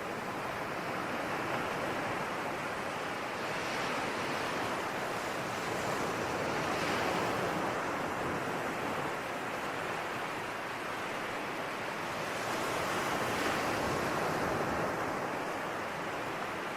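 Ocean waves washing in on a shore, a continuous surf wash that swells and eases every few seconds.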